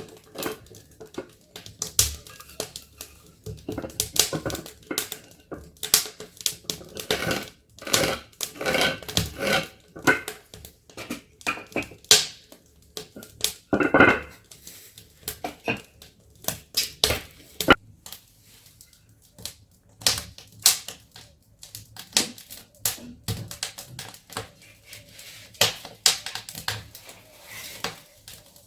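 Rapid, irregular clicking and clattering: many sharp clicks and knocks, with one short pitched sound about fourteen seconds in.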